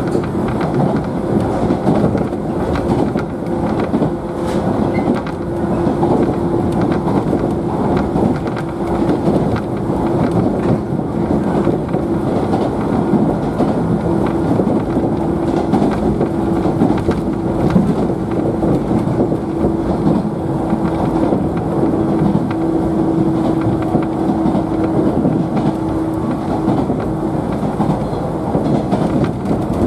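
Cabin of a JNR 113-series electric train's motor car running along the line: a steady rumble of wheels on rail with a constant hum throughout.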